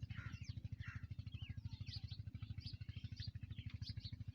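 Massey Ferguson 375 tractor's diesel engine idling with an even, fast putter, while small birds chirp over it again and again.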